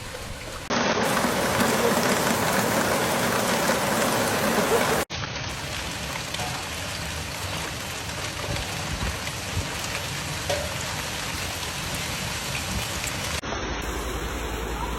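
Heavy rain pouring down, an even hiss of rainfall. It is loudest over the first few seconds, then changes abruptly at cuts to a steadier, somewhat quieter downpour.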